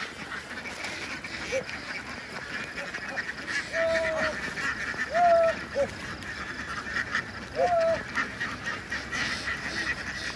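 A large flock of domestic ducks quacking and chattering continuously, with a few louder drawn-out calls standing out about four, five and eight seconds in.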